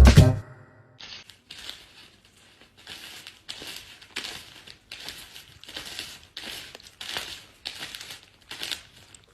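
Repeated short rustling, crinkling noises, about two a second.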